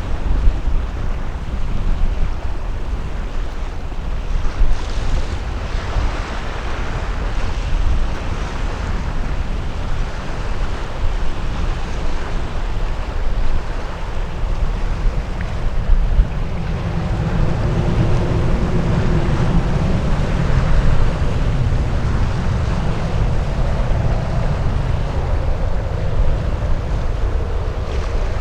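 Wind buffeting the microphone with a steady low rumble, over which a departing jet airliner's engine noise grows louder in the second half, with a faint whine in it.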